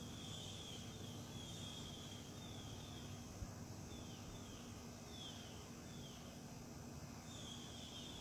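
A bird calling outdoors: a run of short, high, down-slurred notes, one or two a second with uneven gaps, over a steady faint high hiss.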